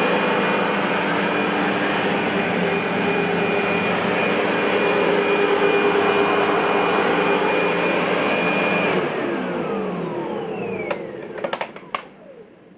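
Century 400 U-Vac (SEBO-built) commercial upright vacuum cleaner running steadily with a whine. About nine seconds in it is switched off and the motor winds down, falling in pitch. A few sharp clicks come near the end.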